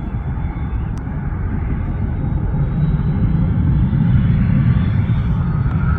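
Aircraft engines giving a steady low rumble that grows somewhat louder in the second half, with a faint high whine over it.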